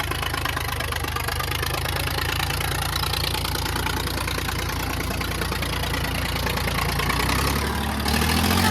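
Tractor diesel engine running steadily at low revs, then revving up near the end, its pitch rising.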